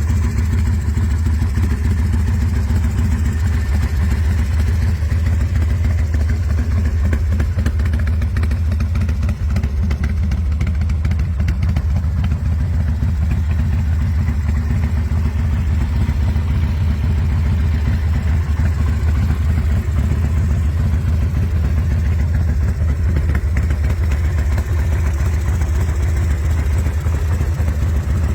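2004 Big Dog Bulldog's V-twin motorcycle engine running steadily, without revving up or down.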